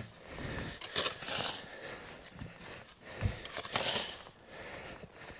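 Crunching steps in snow and the knocks of wooden cabin floor panels being handled, with a soft thump a little over three seconds in.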